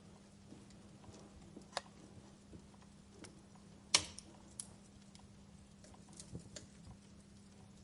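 Wood fire crackling in a fireplace: scattered sharp pops and snaps over a faint hiss, the loudest pop about four seconds in.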